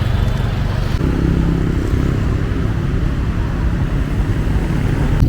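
Motorcycle engine running steadily with road and traffic noise, a low hum that settles about a second in.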